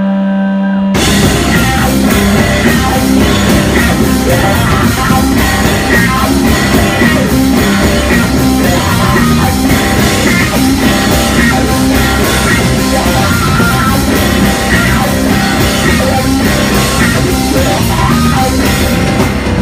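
Rock band playing live and loud: a single held note for about the first second, then the full band comes in with electric guitar, bass and a drum kit.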